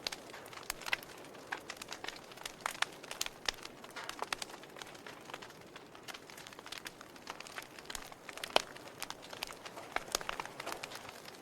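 Wood fire in a fireplace crackling: irregular sharp pops and snaps over a soft hiss, with one louder pop about eight and a half seconds in.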